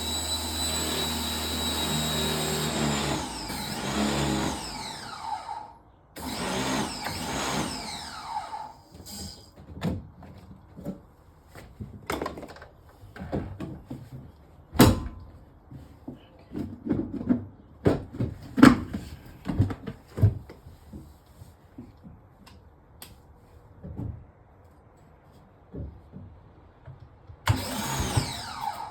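An electric motor runs loudly with a steady whine, then winds down with falling pitch about six seconds in. It runs again briefly, then gives way to scattered knocks and clatters, and starts up once more near the end.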